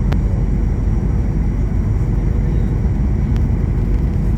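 Steady, even noise of an airliner in flight, engines and rushing air, with two faint clicks.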